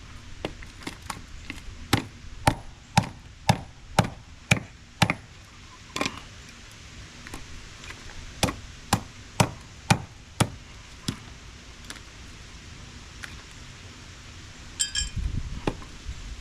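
Sharp hammer blows at about two a second, in two runs of several strikes each with a few single knocks between, followed by a brief metallic ping near the end.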